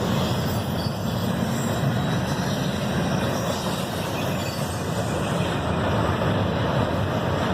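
Freight train rolling by: a steady rumbling noise of wheels on rails.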